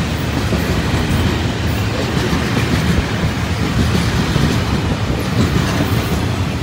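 A long freight train of loaded flatcars rolling past close by: a steady loud rumble of steel wheels on the rails.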